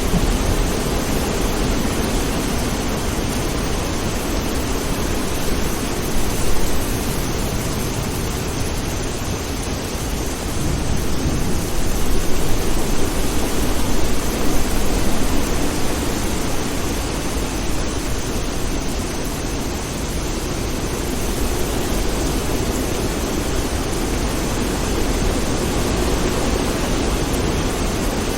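Steady rain falling, an even hiss with a deep low rumble under it. Distant thunder swells briefly about a quarter of the way in and again for several seconds around the middle.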